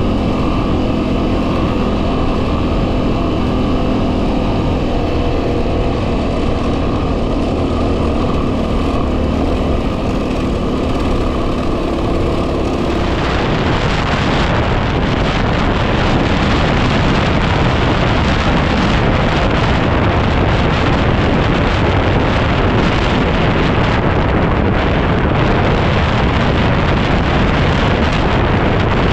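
Yamaha WR250R single-cylinder four-stroke engine running at a steady speed while riding, with wind buffeting the microphone. About thirteen seconds in the wind noise swells and largely drowns out the engine.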